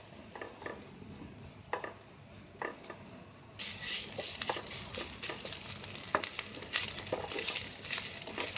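Wooden spatula stirring chopped onions and ginger-garlic paste in hot oil in a kadhai, scraping and knocking against the pan. About three and a half seconds in, a loud sizzle of frying comes up suddenly and continues under the scraping.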